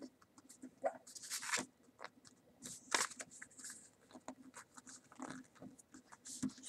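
A sheet of paper being folded and creased by hand: irregular crinkles and crackles in short bursts, the loudest at about one and a half and three seconds in.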